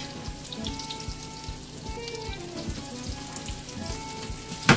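Breaded chicken cutlets sizzling as they shallow-fry in a hot mix of olive and canola oil, under quiet background music. A single sharp knock near the end as the cutlets are turned over with tongs.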